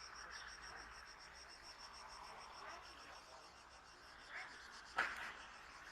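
Insects chirping in a steady, evenly pulsed high trill, several pulses a second, with one sharp click about five seconds in.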